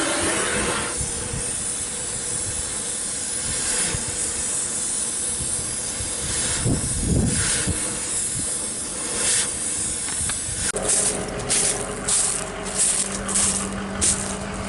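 Galvanized steel pipe fitting being sawn through: a steady rasping hiss of cutting. Near the end a low steady hum starts under separate strokes, about two a second.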